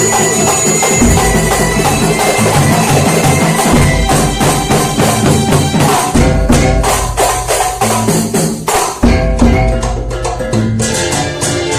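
Kuntulan ensemble music: a fast rhythm of hand drums with jingles and deep bass-drum strokes over sustained melodic notes, the drumming growing denser about four seconds in.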